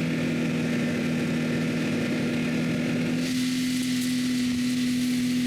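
Snowmobile engine running steadily while packing down a snow trail. About three seconds in, its pitch steps up slightly and the sound gets a little brighter.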